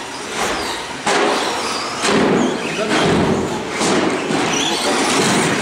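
Radio-controlled short course trucks racing on an indoor track, with repeated thuds of the trucks landing and knocking into things about once a second over the busy hum of the race.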